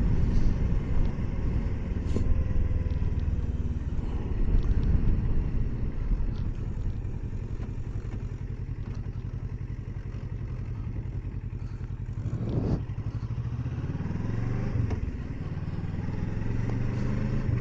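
Kawasaki Versys 650 motorcycle's parallel-twin engine running as the bike rides along. It eases off through the middle, gives a short knock a little past halfway, then climbs in pitch as it accelerates in the last few seconds.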